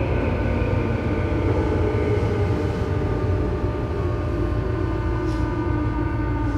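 Running sound from above a Tobu 9000 series motor car (MoHa 9204) with armature chopper control: deep rumble of the traction motors and wheels under several thin whining tones that slowly fall in pitch. This car's chopper is known for an abnormal noise.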